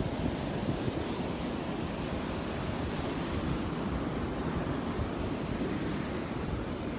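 Gulf of Mexico surf washing onto a sandy beach, a steady rush of breaking waves, with wind buffeting the microphone.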